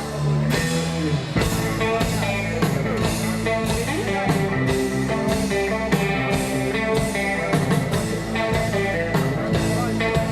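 Live rock band playing an instrumental passage between verses: electric guitar, bass and drum kit with a steady beat.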